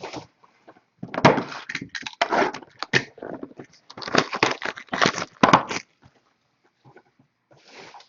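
Packaging of a sealed box of baseball cards being torn open and handled: a run of crackling, ripping and scraping noises with short gaps, stopping about six seconds in, then a brief rustle near the end.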